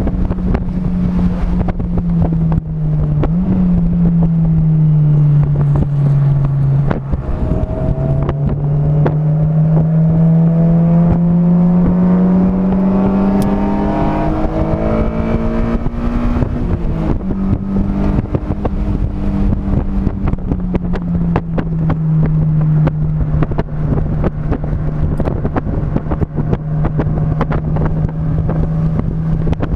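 A vehicle's engine at speed on a race track, its note stepping down twice in the first seven seconds, then climbing steadily for about nine seconds before falling away and settling. Wind buffets the microphone throughout.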